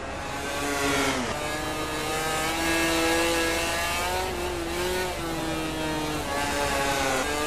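MotoGP racing motorcycle engines at high revs. The pitch drops sharply about a second in as a bike slows for a corner, then climbs and holds high as it accelerates, with further small dips and rises.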